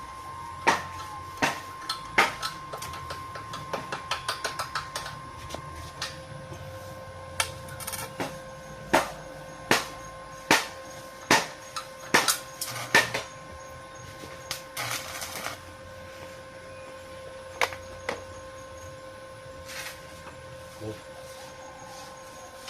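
Hammer strikes on metal, a sharp knock about every three-quarters of a second, with a quick run of lighter taps around four seconds in; the knocks stop about thirteen seconds in. A short rushing noise comes about fifteen seconds in, and a steady hum runs underneath.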